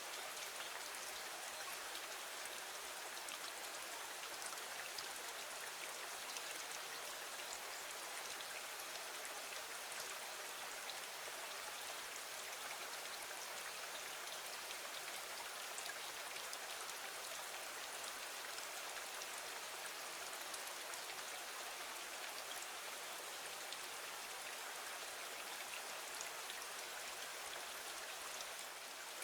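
Steady rain falling against a window, an even hiss with many small drop ticks scattered through it.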